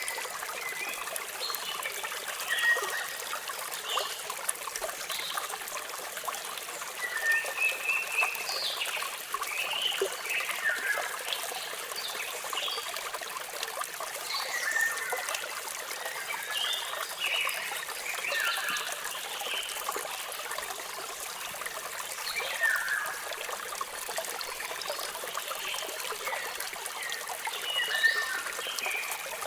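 Steady running, trickling water of a waterfall, with birds chirping in short, quick notes throughout.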